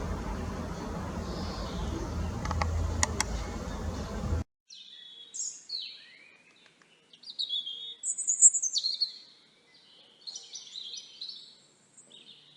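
Steady outdoor background with a low rumble and a couple of sharp clicks, cut off suddenly about four seconds in by clear songbird chirps and song: short high-pitched phrases with gaps between them.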